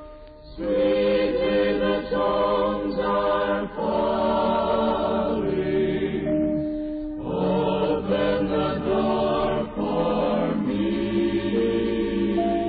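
Slow hymn music with voices holding long notes, the melody moving in steady phrases.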